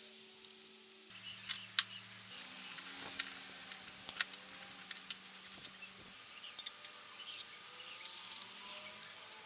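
Irregular light clicks and clinks, a few of them sharper, with the loudest a little past the middle.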